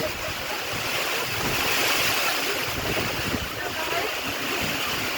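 Storm wind gusting and buffeting the microphone with low rumbles, over a steady hiss of heavy rain.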